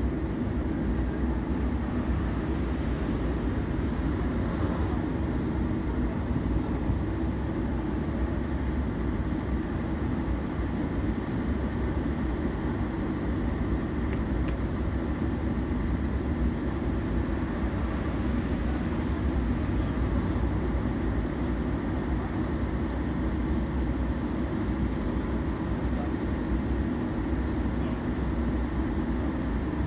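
Steady low rumble of a train running across a long river bridge.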